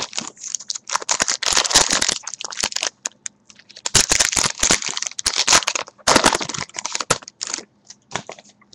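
Crinkling and rustling of baseball card pack wrappers and cards being handled, in three spells of about two seconds each, with a few lighter ticks near the end.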